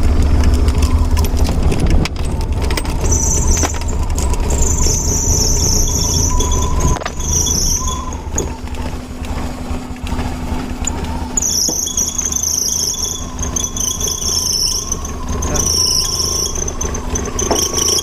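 Hyundai EON's engine running steadily just after a cold start, having stood for about a year since being written off in an accident. A high-pitched squeal comes and goes over the engine from a few seconds in.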